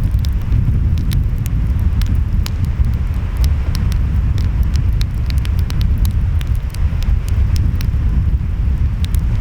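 Wood fire crackling with many sharp, irregular pops over a steady low rumble of ocean waves and wind.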